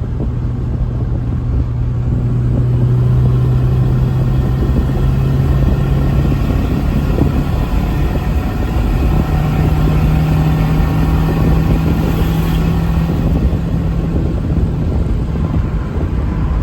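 Turbocharged KA24DET four-cylinder engine of a Nissan 240SX drift car running at steady revs, its pitch stepping up a little about nine seconds in.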